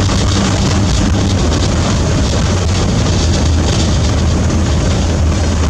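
Camper van driving: steady engine and road noise with a low hum, heard from inside the cab.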